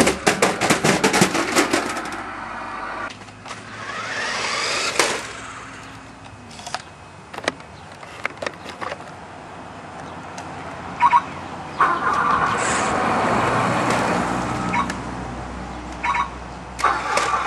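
RC car driving, heard from a camera riding on it: a fast run of clicks and rattles at the start, the motor whining up in pitch about four seconds in, then scattered knocks and a steady rolling noise from the tyres and drivetrain.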